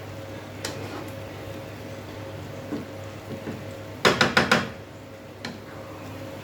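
Kitchen cookware clattering: a quick run of about five sharp metallic knocks about four seconds in, with a few lighter single clicks before and after. A steady low hum runs underneath.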